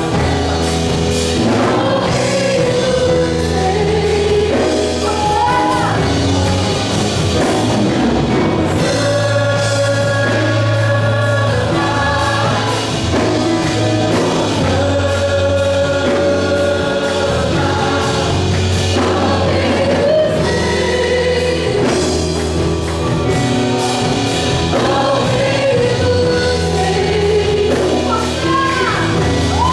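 Gospel worship band playing with singing voices over steady sustained bass notes.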